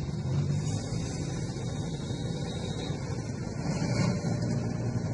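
Toyota Corona Select Saloon on the move, with a steady rumble of engine and road noise.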